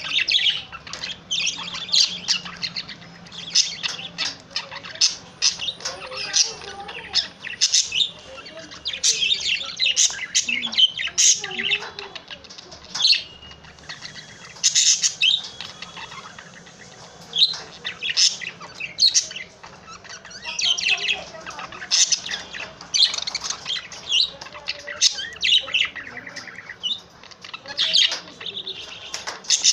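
A male budgerigar warbling: a long, rapid run of high chirps, clicks and chatter, broken by a couple of short pauses.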